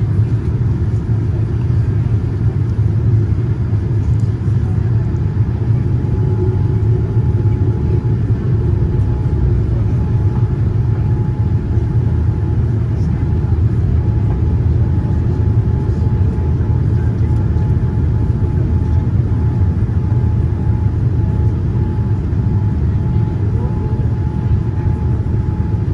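Steady low rumble of a Boeing 787-9 airliner's GEnx engines and airflow, heard from inside the cabin, with a faint steady whine joining about five seconds in.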